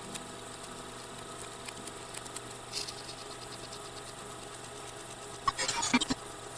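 A steady mechanical hum, like a motor running at idle, with a few faint clicks and a brief louder burst of noise about five and a half seconds in.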